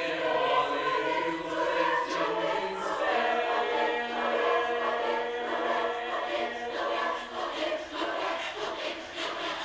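Choir singing unaccompanied chords in harmony, with a chord held steady from about three seconds in that thins out and fades near the end.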